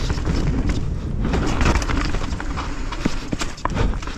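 Mountain bike rolling along a dirt trail: tyre noise with scattered clicks and knocks from the bike, over a steady low rumble of wind on the microphone.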